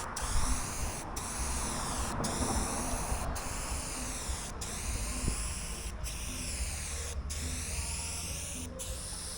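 Aerosol spray paint can hissing in steady passes, with a brief break in the hiss about once a second as each pass ends and the next begins.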